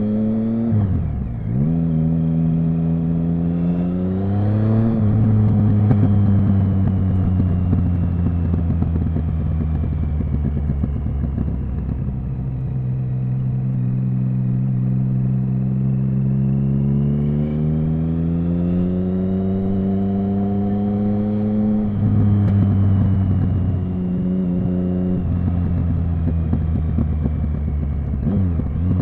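Triumph Speed Triple 1050's inline-three engine pulling through the gears while riding, revs rising and falling. Quick drops in pitch that recover, about a second in and near the end, mark gear changes. The revs climb steadily for several seconds before falling off again after about two thirds of the way through.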